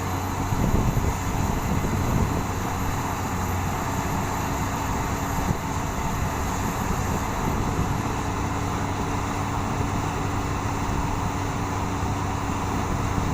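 Rotary bored-pile drilling rig running steadily, its engine giving a continuous low drone with no pauses.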